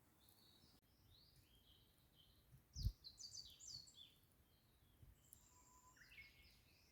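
Wild birds chirping faintly, with short runs of quick downward-sliding notes in two bursts, the second about six seconds in. A soft low thump about three seconds in.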